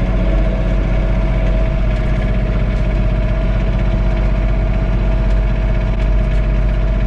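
John Deere 3046R compact tractor's three-cylinder diesel engine running steadily at about 1500 RPM, heard from inside the cab, with a steady whine above the engine note.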